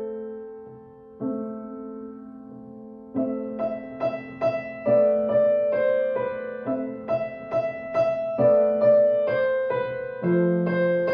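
Solo piano playing a gentle beginner-level piece. Notes and chords are held and left to fade for the first three seconds or so, then a steady run of single notes follows, about two a second, over sustained low notes.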